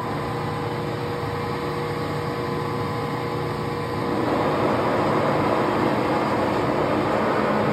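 PM Profitmaster 22" x 120" engine lathe just switched on, its motor and gearing running steadily, getting louder about four seconds in.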